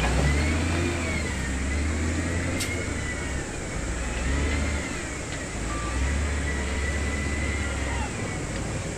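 Diesel engine of a heavy earthmoving machine (bulldozer or wheel loader) working under varying load. Its low drone swells and eases every second or two, with a high whine that wavers up and down over it.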